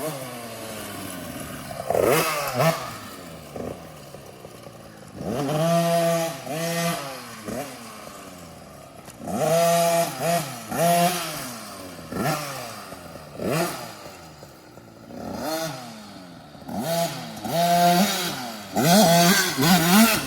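Husqvarna TC 50 two-stroke kids' dirt bike ridden around a track, jetted with a 90 main jet. Its engine repeatedly revs up and drops back as the throttle is opened and closed into and out of corners, growing louder as the bike passes close.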